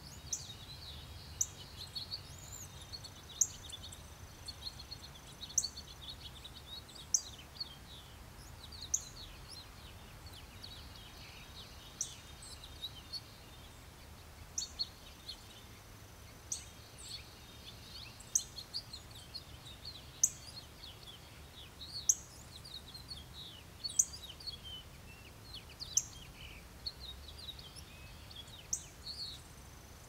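Woodland birds chirping: one sharp, high chirp repeats about every two seconds over a busy chorus of softer twittering, with a low steady rumble underneath.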